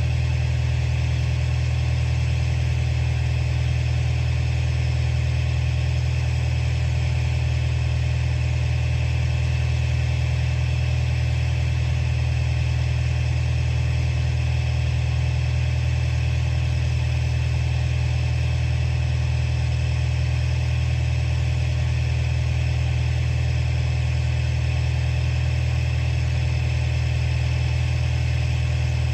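Komatsu bulldozer's diesel engine running at a steady, unchanging speed.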